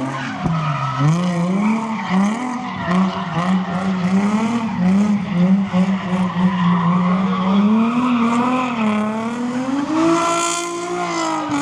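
Car engine held at high revs while the tyres squeal and spin, as when a car does donuts. The engine note wavers up and down every second or two and climbs about ten seconds in.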